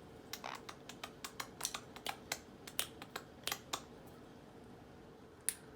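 Conure's beak tapping and clicking: a quick, irregular run of short sharp clicks over the first four seconds, then one more near the end.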